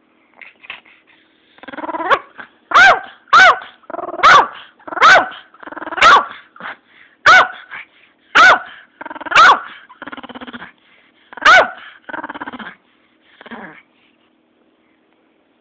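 Pomeranian barking: about nine sharp, loud barks with growling between them, dying away about two seconds before the end.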